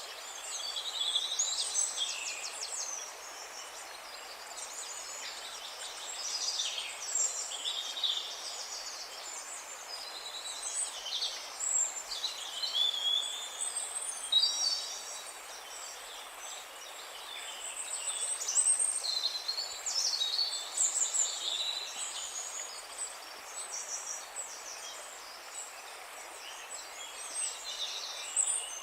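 A chorus of many small birds chirping and trilling at once, calls overlapping densely and rising and falling in waves, over a steady background hiss.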